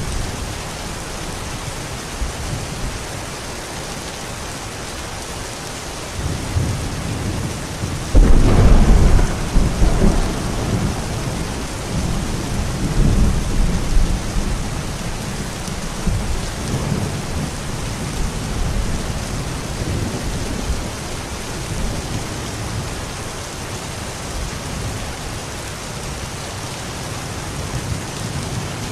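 Steady rain with a roll of thunder about eight seconds in: a sudden loud low rumble that rolls on for several seconds, fading back under the rain.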